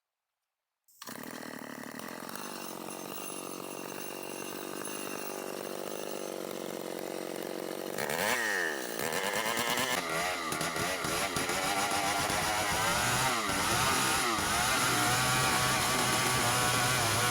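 Gasoline chainsaw engine running, coming in suddenly about a second in. Near the middle it revs up, then runs louder with a wavering pitch as it saws through wood, lengthwise to cut planks.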